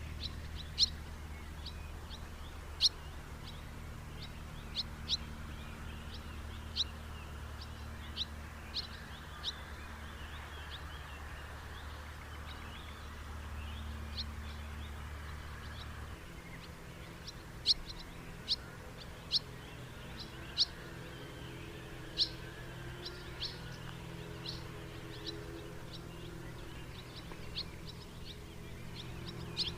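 House martin calls: short, sharp chirps at irregular intervals, some much louder than others, with a gap of several seconds before they pick up again. A steady low rumble runs underneath and changes character about halfway through.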